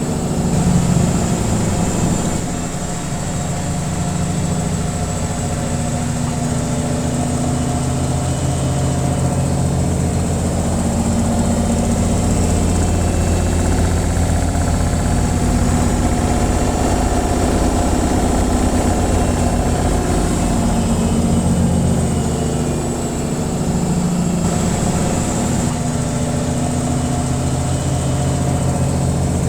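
Washing machine on its spin cycle: a steady low mechanical drone with vibration, swelling and easing slightly in level.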